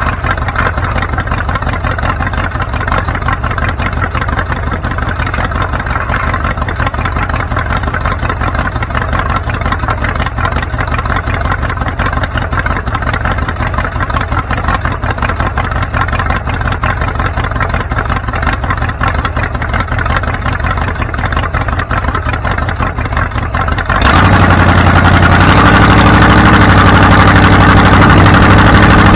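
A vehicle's engine running under a steady wash of road and wind noise while driving. Near the end the sound jumps suddenly louder, and a steady low engine hum comes in.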